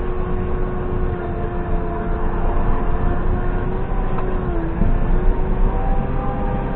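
JCB 3CX backhoe loader's diesel engine running steadily, with a whining tone over a low rumble that briefly drops in pitch about two-thirds of the way through.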